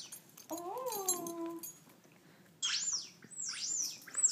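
Bird-like chirps played through a phone speaker: a quick run of high chirps, each sweeping up and down, starting past the middle.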